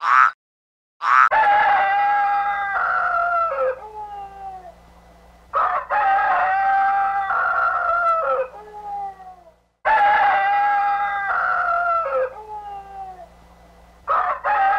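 Rooster crowing, cock-a-doodle-doo, three times in full, each a long call that falls in pitch at the end, with a fourth crow starting near the end. A short sharp call comes just before the first crow.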